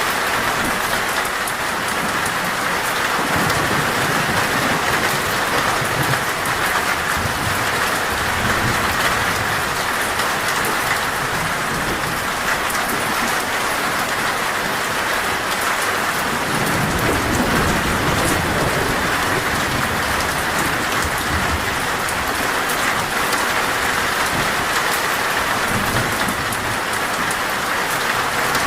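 Heavy, steady rain drumming on a metal roof, with low thunder rumbling up several times: a few seconds in, in the middle, and again near the end.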